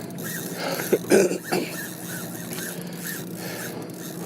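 Fishing rod and reel creaking and cracking under the heavy load of a hooked bluefin tuna, a short high creak repeating about three times a second, with a few louder knocks about a second in. The angler takes the crack for his tackle cracking under the strain, with the reel working loose on the rod.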